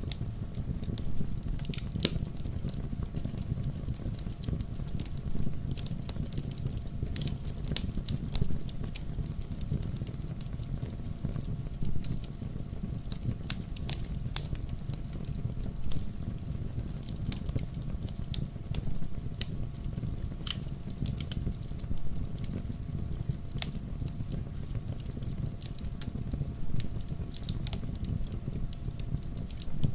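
Wood bonfire crackling, with frequent sharp, irregular pops and snaps over a steady low rumble.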